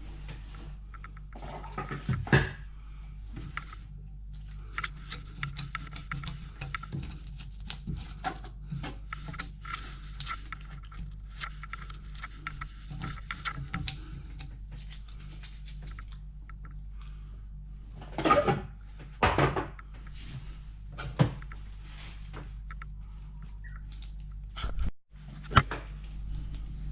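Scraping and rubbing with scattered knocks and clicks over a steady low hum; a few louder knocks stand out, about two seconds in and again near the end.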